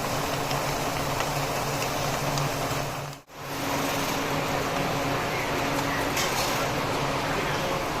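Steady machine noise with a low hum, cut off for a moment about three seconds in.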